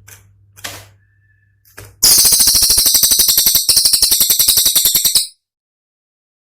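Cililin songbird's rapid, very high-pitched rattling trill of sharp notes, about ten a second, lasting about three seconds with a brief break partway through and stopping abruptly; a few faint clicks and a short thin whistle come before it.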